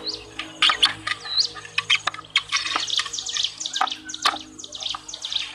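Birds chirping: a dense run of quick, high, downward-sweeping chirps, thickest in the middle, with a few sharp clicks among them.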